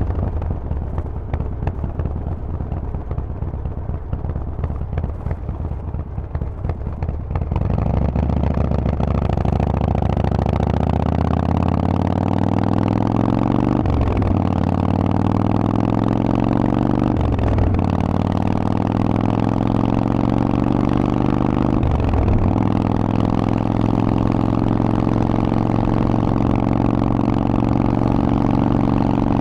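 Harley-Davidson Forty-Eight's air-cooled V-twin through a Vance & Hines exhaust, running low at first, then pulling away about eight seconds in. Its pitch climbs through three upshifts, each a brief dip, and then holds steady at cruise.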